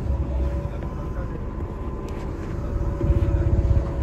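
Kintetsu 6020 series electric train running slowly, heard from the cab: a steady low rumble with a faint steady whine, and a louder stretch of rattle about three seconds in.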